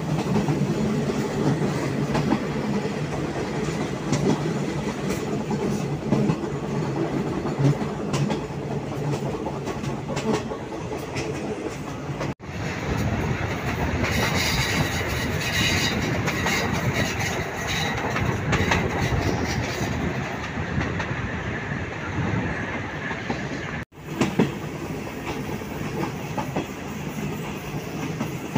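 Passenger train running along a curving line, heard from an open window of one of its own carriages: a steady rumble and clatter of the wheels on the rails. The sound drops out for an instant twice.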